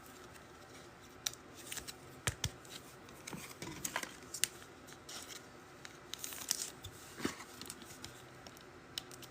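Faint handling of trading cards: scattered soft clicks, slides and crinkles as cards are shuffled and sorted by hand.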